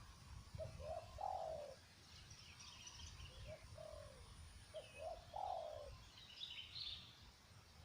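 Spotted dove cooing: three phrases, each of one or two short coos followed by a longer falling coo. Other small birds chirp faintly in between, over a low rumble.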